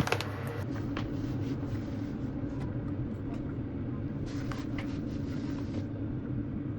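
A steady low mechanical hum with a few light clicks and knocks over it.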